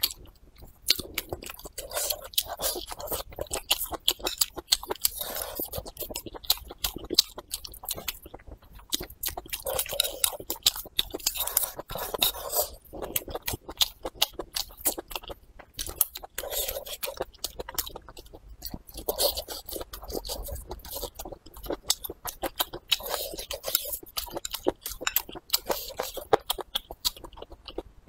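A person chewing food close to the microphone: crunching and wet mouth clicks in quick, irregular succession throughout.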